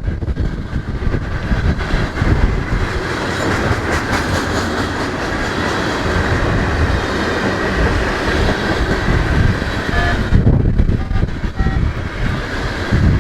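Norfolk Southern freight train rolling past, its cars making a steady, loud rumble on the rails.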